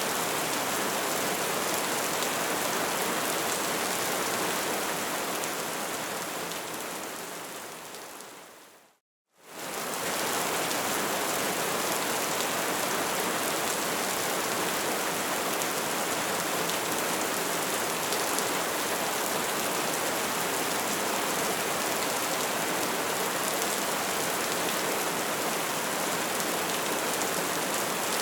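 Bonfire burning with a steady crackling hiss. About eight seconds in, it fades out to a moment of silence, then quickly comes back at full level.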